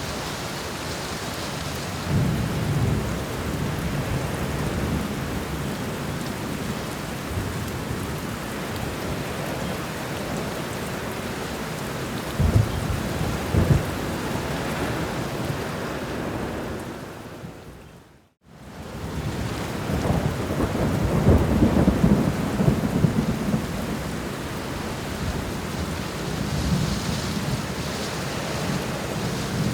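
Steady heavy rain with rolling thunder. Low rumbles swell several times, with two sharper cracks of thunder near the middle and a long rumble in the latter part. A little past halfway the whole sound fades briefly to silence and returns.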